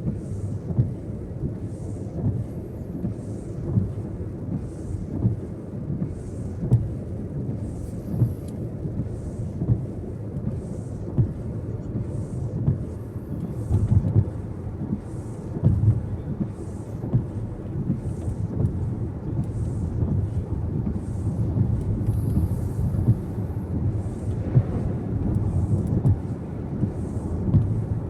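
Car cabin noise while driving: a steady low rumble of tyres on the road and the engine, with a faint high-pitched pulse about once a second.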